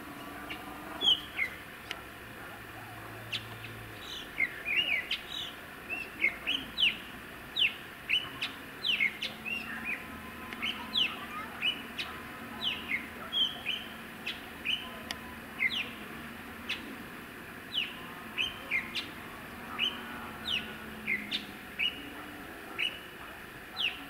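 Small songbirds chirping: a busy run of short, high calls, each sliding quickly downward, coming several times a second at times.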